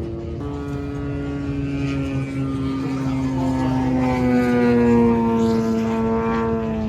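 A radio-controlled model airplane's motor and propeller buzzing. It grows louder toward about five seconds in while its pitch slides slowly down as the plane passes.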